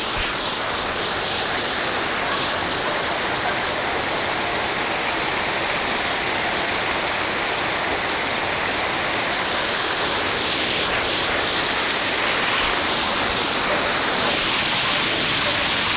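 Waterfall seen up close: a steady rush of falling water, getting slightly louder towards the end.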